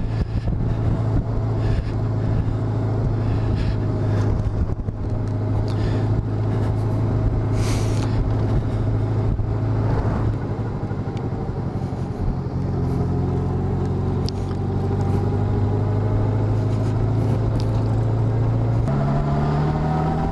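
Honda Gold Wing motorcycle engine running steadily while riding. Near the end its pitch steps up and climbs as the bike accelerates.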